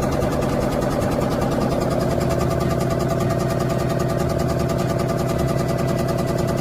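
A motor-driven machine running steadily with a fast, even rattle.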